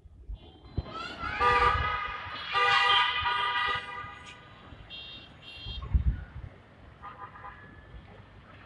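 Vehicle horns honking in city traffic: two long, loud honks in quick succession, the first sliding up in pitch as it starts, then fainter short honks, over a low traffic rumble.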